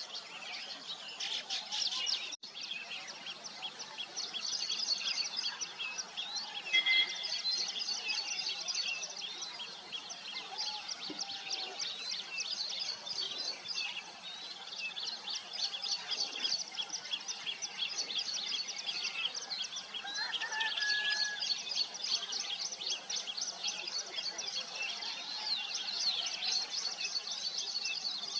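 A colony of weaver birds chattering at their nests: a dense, unbroken stream of rapid high-pitched chirps from many birds at once.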